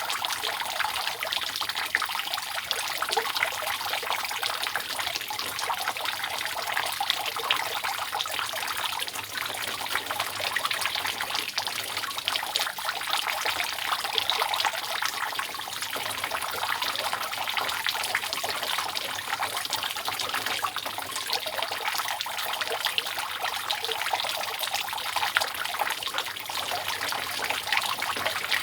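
Rainwater dripping and trickling continuously off a roof: a dense, steady run of many small drops.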